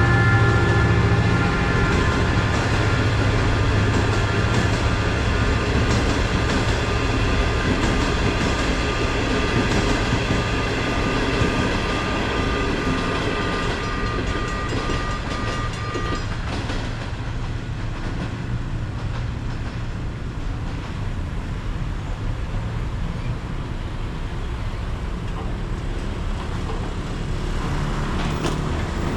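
Train passing over a railway level crossing, its wagons rolling over the rails with a steady low rumble that eases off in the second half. A pulsing tone runs over it and stops about halfway through.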